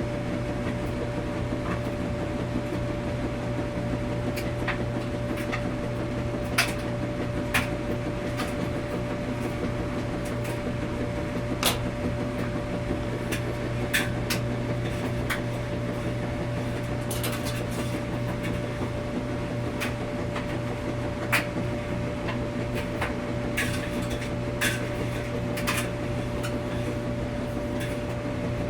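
Washing machine running in a laundromat with a steady hum, with irregular light clicks and clinks scattered through it.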